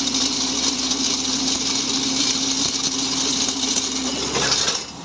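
Engine of a mini tractor post hole digger running steadily, then dropping away sharply just before the end.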